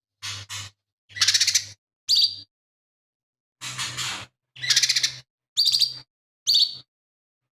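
Lesser green leafbird (cucak ijo mini) singing a string of about eight short, harsh, chattering phrases separated by brief pauses, some ending in a clear high whistled note.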